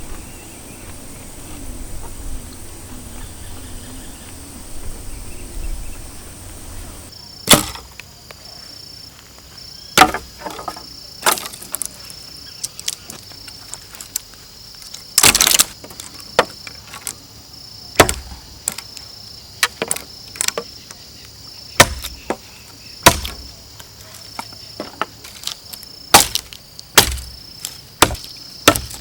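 Sharp woody knocks, irregular, one every second or two, starting about a quarter of the way in, like wood being chopped. Crickets chirr steadily behind them.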